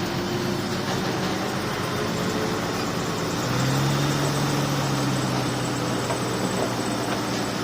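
Heavy diesel earthmoving machine running steadily. Its low engine note grows stronger a little past three seconds in, holds for a couple of seconds, then eases back.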